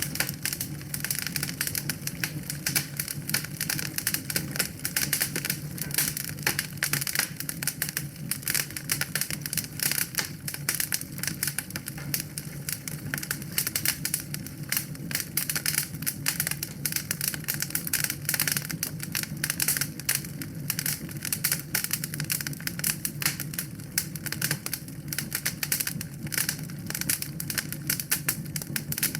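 Wood fire in a fireplace crackling, with dense irregular snaps and pops over a low steady rumble of the flames.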